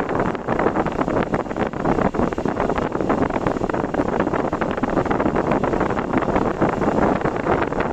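A car being driven, with a steady rush of road and wind noise and a dense crackle of wind buffeting the microphone.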